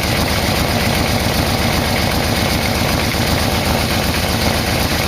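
Yamaha VMax's carbureted V-four engine idling steadily while its carburettors are being synchronised, the adjustment screw being turned only slightly.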